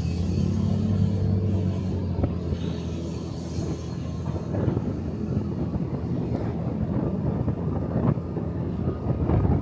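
Motorcycle engine running under wind and road noise on the camera's microphone. A steady low engine hum turns rougher and more uneven after about four seconds.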